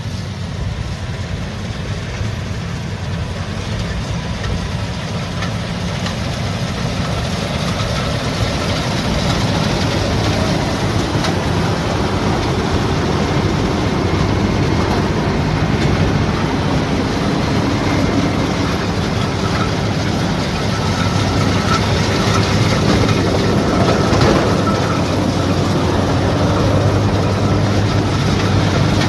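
Combine harvester running steadily, its diesel engine humming under the clatter of the cutting and threshing machinery, growing gradually louder.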